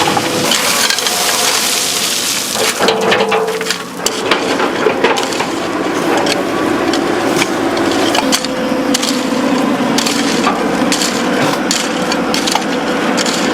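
Excavator working over rubble: many irregular sharp cracks, knocks and clattering over a steady engine hum.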